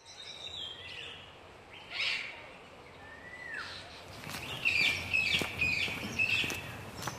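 Small birds chirping over faint outdoor ambience, with a falling whistled note about three and a half seconds in and a run of quick repeated chirps in the second half, plus a few sharp ticks among them.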